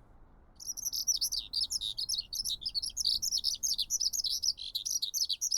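Skylark singing: a rapid, unbroken high twittering that starts about half a second in.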